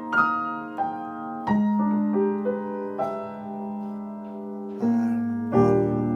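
Piano playing a slow passage: single notes and chords struck a few at a time and left to sustain, with a fuller, louder chord near the end.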